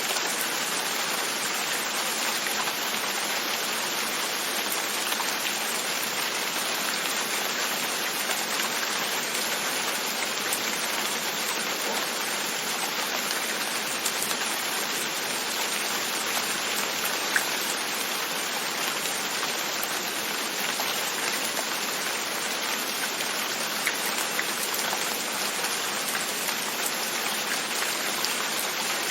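Steady rain, its drops tapping on a window, an even hiss with faint individual ticks.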